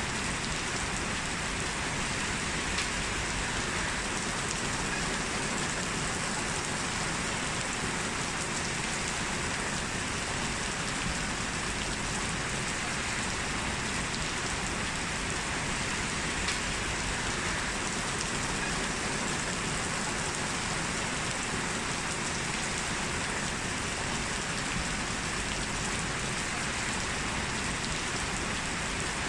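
Heavy rain falling steadily, a dense even hiss of drops with faint scattered individual splashes.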